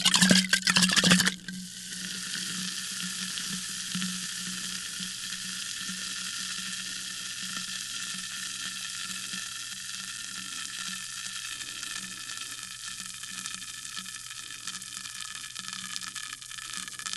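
Sparkling water poured into a glass: a loud splashing rush for the first second or so, then the carbonation fizzing steadily with a fine crackle of bursting bubbles.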